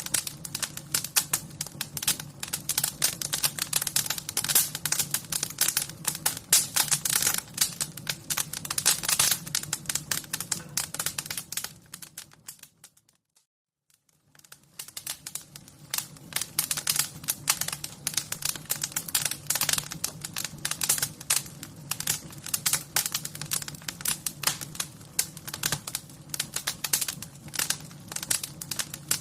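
Wood fire crackling, with dense, irregular small snaps and pops. The crackling fades out to silence about thirteen seconds in and fades back in a second or two later.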